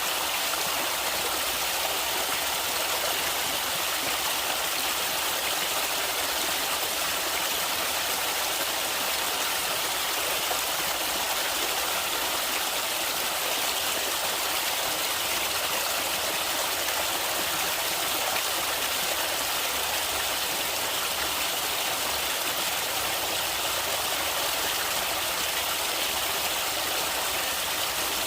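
A river or stream flowing over rocks: a steady, even rush of water.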